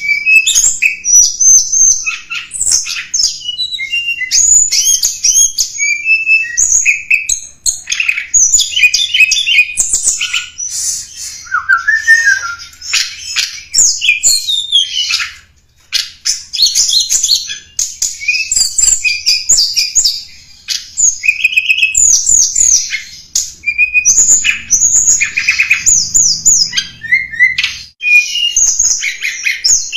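Tledekan gunung song, a recorded lure call: a loud, rapid run of high chirps, trills and squeaky slurred notes, sung in phrases with short breaks between them.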